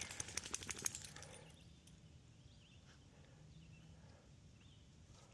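A quick flurry of sharp clicks and spatter for about the first second and a half, then quiet outdoor ambience with a few faint bird chirps.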